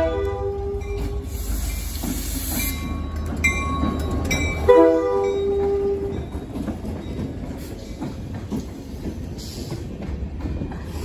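Union Pacific diesel locomotives passing close by: the horn chord trails off about a second in and sounds again in a short blast about five seconds in, over a heavy engine rumble with a few short high pings. Freight cars then roll past, their wheels clicking on the rails.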